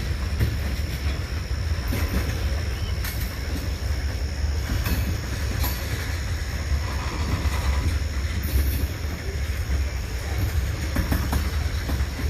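Freight train cars rolling past at track side: a steady low rumble of steel wheels on rail, with scattered clicks as wheels cross rail joints and a steady high whine underneath.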